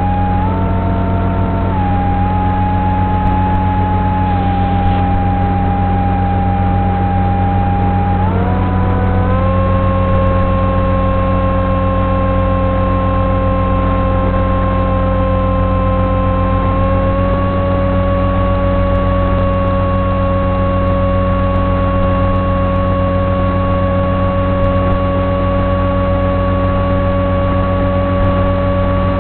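Electric motor and propeller of a Sonic Model AR Wing FPV flying wing whining steadily, over a low hum. The pitch steps up about eight seconds in and rises slightly again later, following the throttle.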